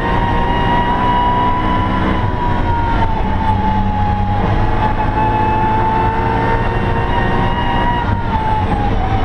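BMW E92 M3's V8 engine at high revs under load, heard from inside the stripped, roll-caged cabin. Its note rises slightly over the first couple of seconds, holds steady, then drops near the end.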